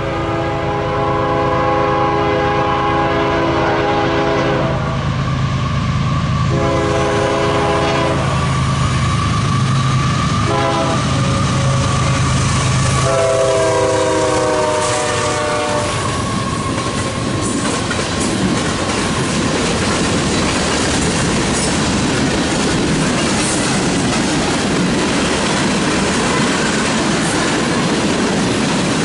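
Canadian Pacific diesel freight locomotive sounding its multi-chime air horn in several blasts as it approaches, with the diesel engine running underneath. The last long blast drops in pitch as the locomotive passes. Then comes the steady rumble and clatter of freight cars (covered hoppers and tank cars) rolling by on the rails.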